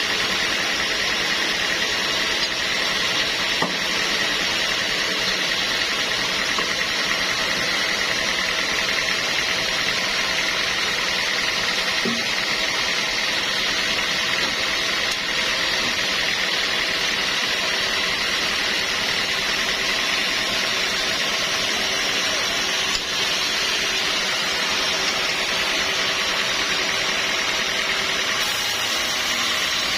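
Sawmill saw running steadily, a constant high whine over a dense, even machine noise.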